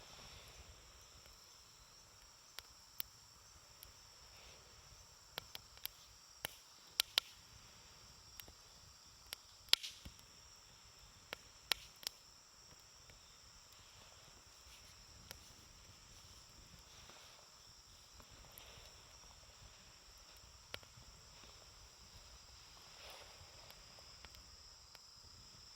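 Wood campfire crackling: scattered sharp pops and snaps, most of them in the first half, over a steady faint high-pitched drone.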